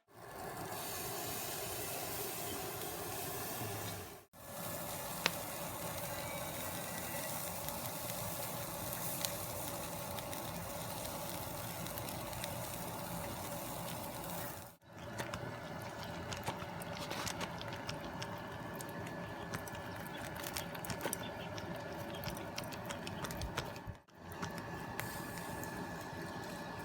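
Chicken pieces sizzling as they cook, a steady hiss dotted with small crackles and pops, breaking off briefly three times.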